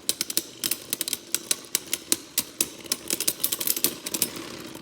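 Two Beyblade spinning tops whirring in a plastic stadium, with a rapid, irregular clatter of clicks as they knock together and against the stadium.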